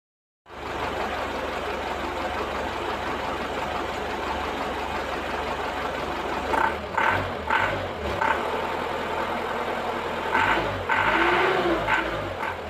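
Toyota 13B four-cylinder diesel engine in an FJ40 running, a steady low rumble, with several short louder surges in the second half.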